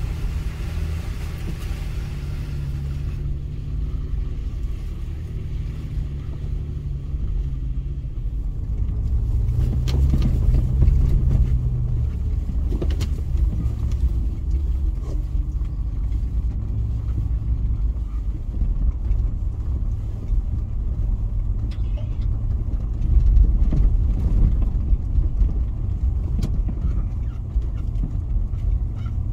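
Toyota FJ Cruiser's 4.0-litre V6 engine running at low speed on an off-road track, swelling louder twice, with occasional sharp knocks over rough ground.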